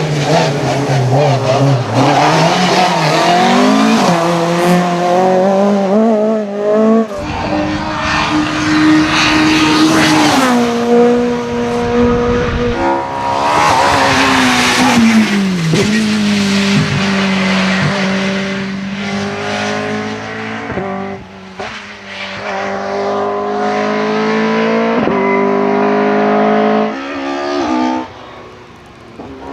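Rally car engine driven hard on a stage, its note climbing and dropping sharply through gear changes and lifts off the throttle, with some tyre squeal. About halfway through the pitch falls away as it slows, then holds steady before climbing again.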